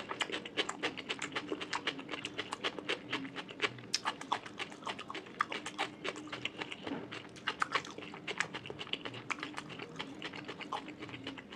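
Close-miked eating sounds: a person chewing a mouthful of fish curry and rice, with rapid wet mouth clicks and smacks.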